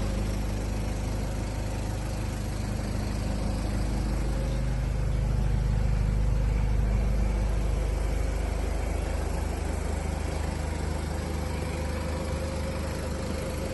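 A 1995 Toyota Hiace's turbo diesel engine idling steadily, its note rising a little for a few seconds near the middle before settling back.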